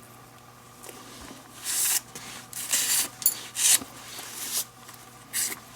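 Leather lace being pulled through the lacing holes of a baseball glove: about five short rasping swishes of lace drawn against leather, each lasting under half a second.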